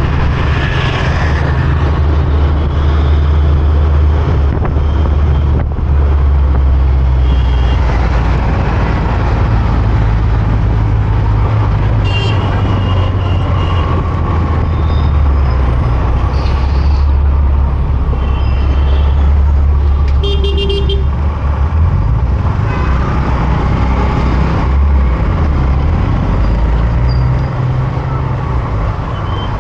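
Motorcycle riding in city traffic: a steady low rumble of engine and road noise, with other vehicles' horns tooting several times, the most prominent about two-thirds of the way through.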